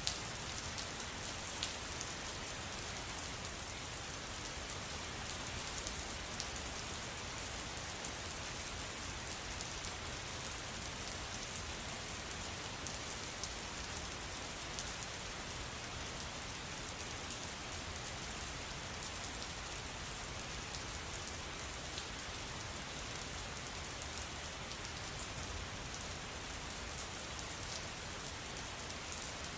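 Steady rain falling, a dense hiss with many small drop ticks scattered through it.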